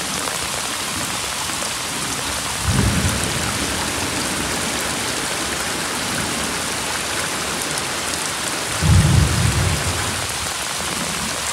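Torrential rain pouring down, with raindrops clicking on the microphone. Two low thunder rumbles come through the rain, one about three seconds in and a louder one near nine seconds.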